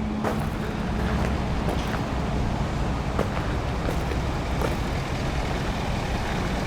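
The 6.7-litre Power Stroke V8 diesel of a 2011 Ford F-450 wrecker idling steadily, with a few light clicks over it.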